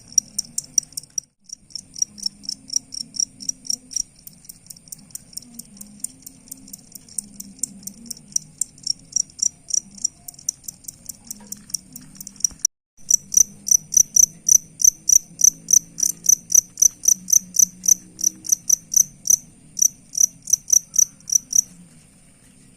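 Field crickets chirping in a steady rhythm of high-pitched pulses, a few a second. The chirps get louder and quicker about halfway through and stop shortly before the end, leaving a faint high hiss.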